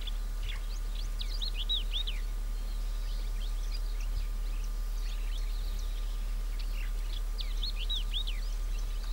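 Forest birds calling: a quick run of high, arching chirps about a second in, and the same run again near the end, with scattered single calls between, over a steady low hum.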